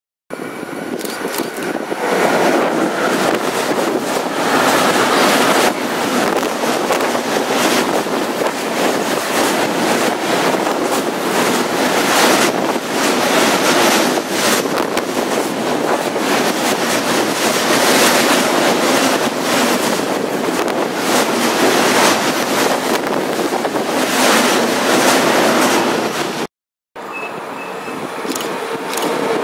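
An electric-hauled container freight train passing through a station at speed: a continuous loud rush of wheels on rail with a rapid clatter of wheel beats. After a sudden cut near the end, a second freight train of tank wagons behind an electric locomotive approaches, its noise growing louder.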